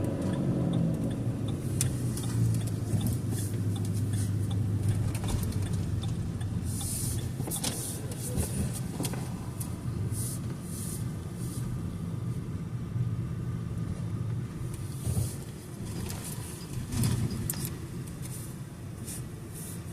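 Car driving, heard from inside the cabin: a steady low engine and road hum with scattered light clicks and rattles.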